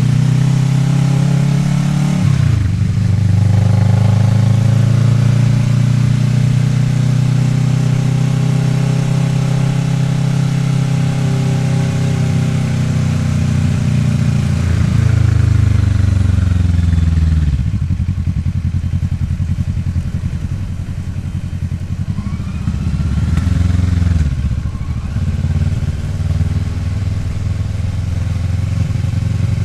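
Kawasaki Ninja 650R's parallel-twin engine under way. It makes a quick gear change a couple of seconds in, then pulls steadily. About halfway through the engine note falls away to a lower, quieter run for several seconds, gives a short rev and drop about two-thirds through, and then settles into a steady run again.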